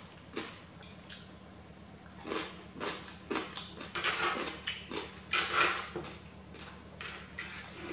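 Close-miked eating sounds: a person chewing and slurping yellow noodles in irregular bursts, sparse at first and coming thick from about two seconds in.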